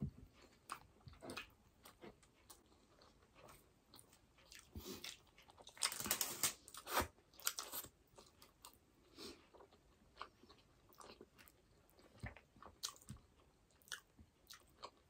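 Close-miked chewing and wet mouth smacks of people eating burger steak and rice: irregular soft clicks and smacks, with a denser, louder run about six seconds in.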